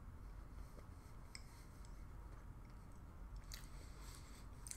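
Faint chewing of a soft baked sweet bean cake filled with red bean paste, with a few soft mouth clicks.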